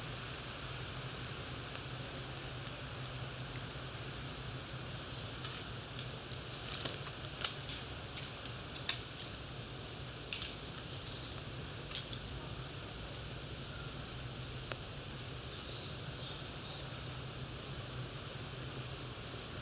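Campfire burning with a steady hiss and scattered crackles and pops, a short flurry of crackling about a third of the way in.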